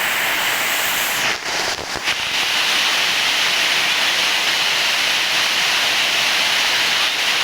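Rain pouring down, a steady rushing noise that dips briefly about a second and a half in.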